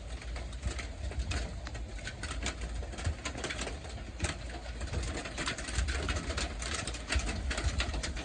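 Rain falling, drops pattering irregularly, over a steady low rumble.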